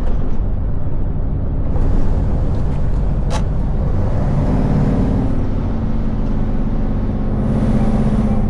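Scania V8 truck's diesel engine droning inside the cab as the loaded lorry slows on its retarder, with the engine note shifting about halfway through. A single sharp click comes about a third of the way in, and a short hiss near the end.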